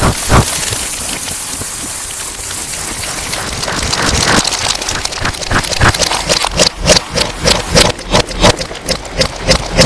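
Distorted slime ASMR sounds: a dense wet crackling hiss, then from about four seconds in sharp sticky pops and clicks several times a second, growing denser toward the end.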